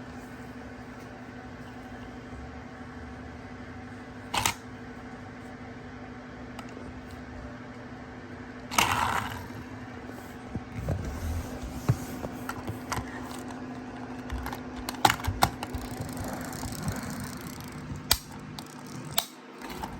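Clicks and knocks of a small plastic toy garbage truck being handled and its parts worked, a few at first and many in the second half, over a steady low hum.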